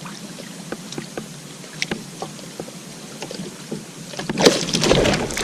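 Small clicks and knocks of handling on a plastic fishing kayak. About four seconds in comes a louder burst of splashing and thrashing as the caught bass fights while being let go.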